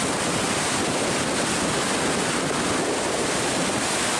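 Lake Superior waves breaking on the shore, a steady rush of surf mixed with strong wind buffeting the microphone.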